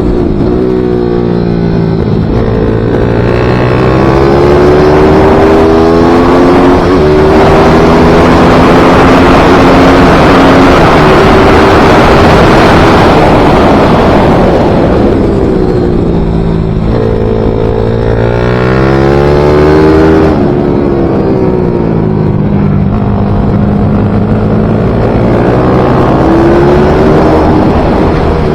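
Pit bike racing motorcycle engine at full throttle, rising in pitch through the gears and dropping back at each shift or braking, with a stretch of rushing wind noise at speed in the middle.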